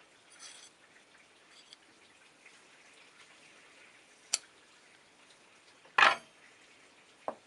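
Parts of an old weighing scale being handled while it is taken apart: a faint scrape near the start, a sharp click about four seconds in, a louder clunk about six seconds in, and a small knock just before the end.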